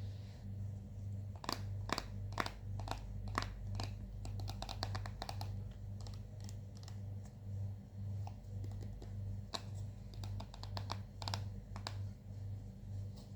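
Hands working purple glitter slime, a run of sticky clicks and pops, heaviest in clusters early on and again about ten seconds in. A low hum pulsing about twice a second runs underneath.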